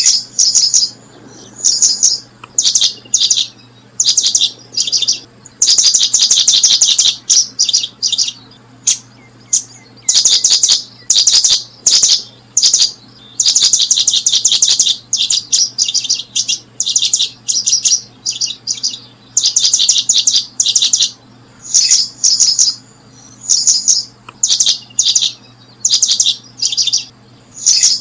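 Small bird chirping in fast, high-pitched trilled bursts, each a quick run of notes, repeating every second or two.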